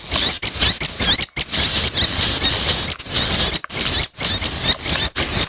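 Young prenjak birds calling: a dense, continuous stream of high-pitched squeaky chirps, broken every second or so by brief pauses.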